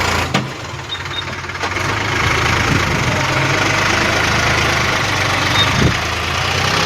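Swaraj tractor's diesel engine running steadily, with a low, even throb under a harsh clattering hiss.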